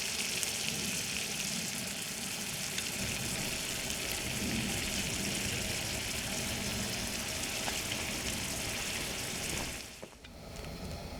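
Food sizzling steadily in hot fat, a continuous hiss that cuts off abruptly about ten seconds in.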